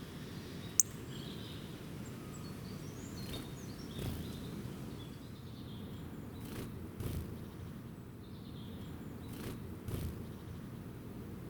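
Outdoor ambience with a steady low rumble and faint, scattered bird chirps. A sharp click about a second in is the loudest sound, with a few softer knocks later on.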